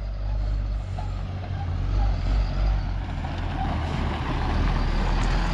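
GMC C8500 tandem dump truck engine running steadily with a low, even rumble.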